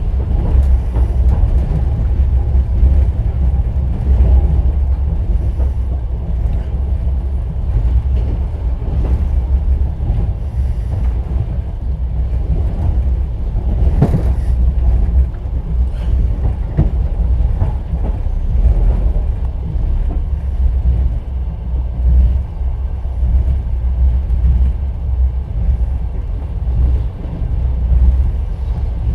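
Inside an open-plan sleeper carriage of a moving passenger train: the steady low rumble of the wheels and running gear on the track, with one sharp knock about halfway through.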